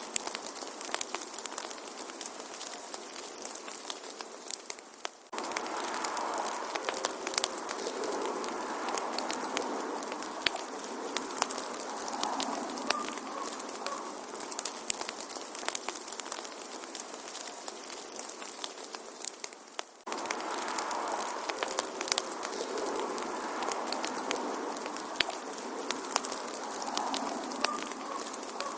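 Wood fire in a fireplace crackling, with many sharp pops over a steady hiss. The sound fades briefly and picks up again twice, about fifteen seconds apart.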